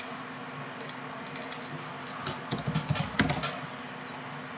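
Typing on a computer keyboard: scattered keystrokes, with a louder, quicker run of keys about halfway through.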